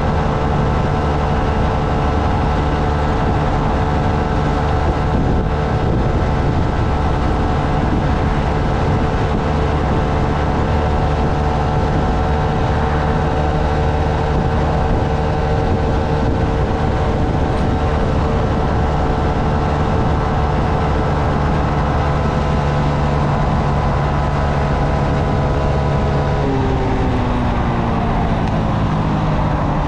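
Honda Navi's small single-cylinder engine running at a steady cruising speed over a constant rush of road and wind noise. Near the end the engine note drops away as the throttle is eased off.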